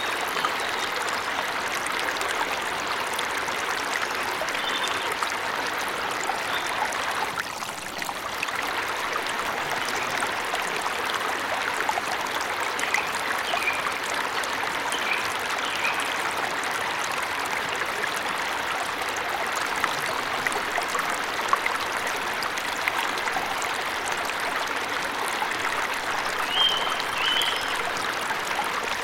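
Waterfall rushing in a steady hiss of falling water, with a few short bird chirps above it now and then, the clearest a brief pair near the end.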